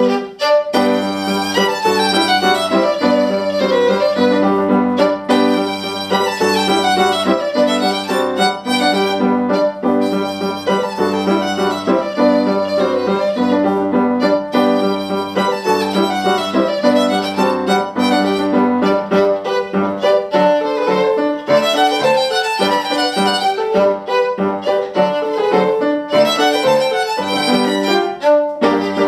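Solo violin playing a quick, lively passage of many fast notes over a steady, repeated piano accompaniment.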